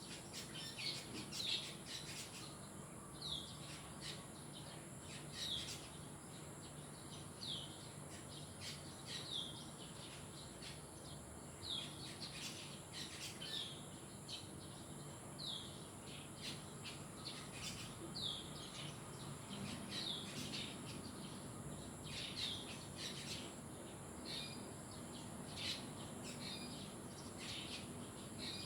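Birds chirping: one bird repeats a short, high, downward-sliding chirp about every two seconds, with fainter chirps between. A steady high hiss runs underneath.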